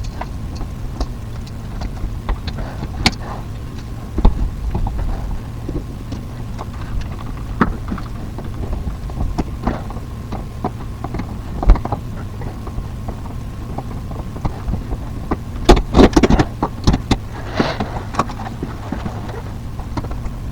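Scattered clicks, taps and knocks of hands working with tools and parts, busiest near the end, over a steady low hum.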